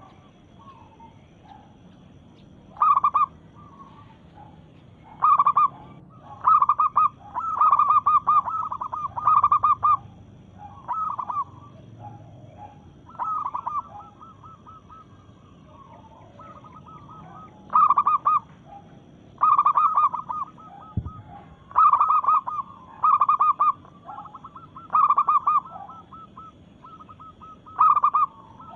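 Female zebra dove (perkutut) calling in bursts of quick, short coos, each burst lasting about a second and repeated every one to three seconds, the call of a female calling to males.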